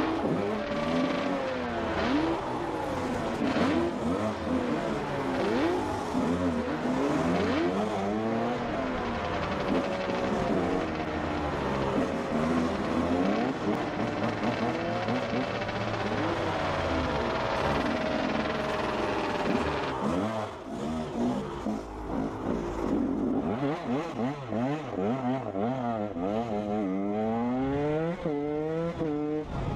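Enduro motorcycle engine revving up and down over and over, its pitch constantly rising and falling. Near the end it revs in quick repeated bursts, each climbing in pitch.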